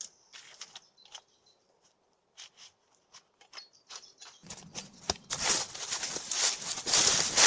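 Scattered light clicks and snaps, then from about halfway a loud, dense rustling and crackling that keeps building toward the end.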